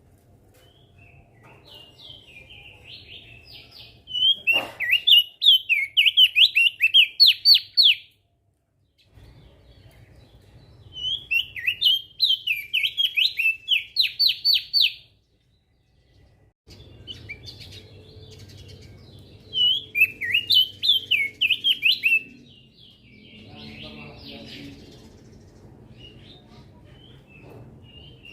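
Crested darkeye (opior jambul) singing three loud phrases of quick, rapidly repeated whistled notes, about three a second, with softer chirps between them. The recording cuts to silence for a moment after the first and second phrases.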